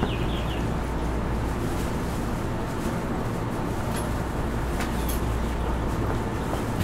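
JR East E231-1000 series electric train running steadily, heard from inside a passenger car: an even rumble of wheels and running gear on the track, with a few short clicks.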